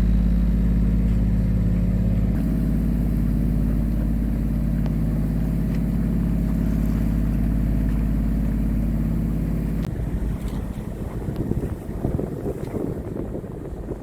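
Sailboat's inboard diesel engine running steadily under motor. About ten seconds in, the engine sound gives way to wind buffeting the microphone, with water moving against the hull.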